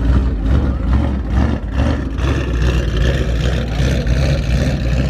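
A loud performance car's exhaust running with a deep, steady note.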